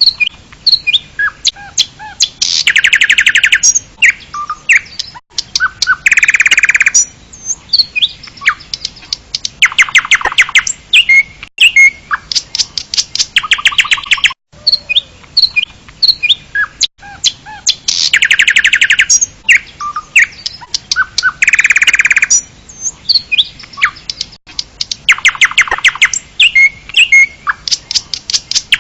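Songbirds chirping and calling, with several loud, fast trills each about a second long among short high chirps. The same run of calls repeats about halfway through.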